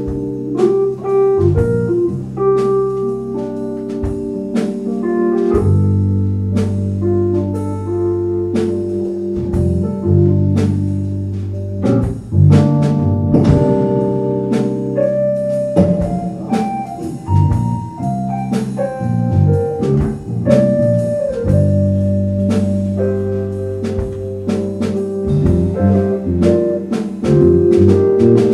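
Live band music: sustained organ-style keyboard chords over bass and a drum kit, with frequent drum and cymbal hits.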